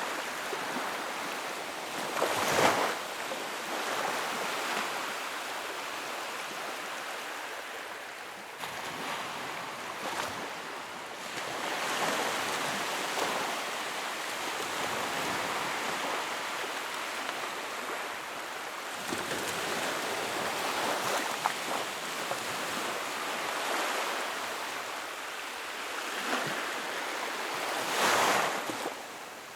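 Wood fire burning in a fireplace: a steady hiss of flames with scattered small crackles, swelling louder briefly about two and a half seconds in and again near the end.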